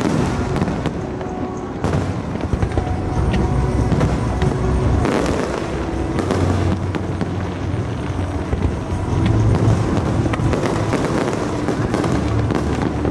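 Aerial fireworks display: a continuous run of booming shell bursts and crackling, with several sharper bangs standing out.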